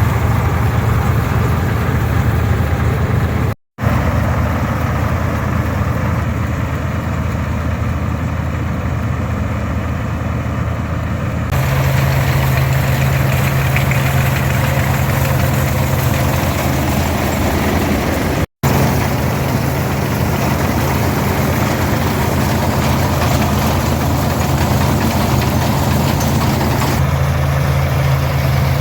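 460 diesel tractor's engine running steadily under load, pulling an International 82 pull-type combine that is threshing oats. It is heard as a continuous low engine drone with a dense mechanical rumble, and it grows a little fuller about eleven seconds in. The sound cuts out for an instant twice.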